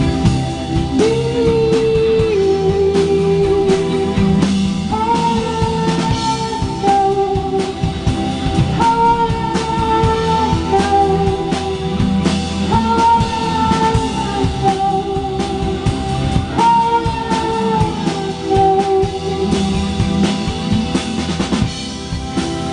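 A rock band playing live: a drum kit and guitars, with a held melodic phrase that comes back about every four seconds.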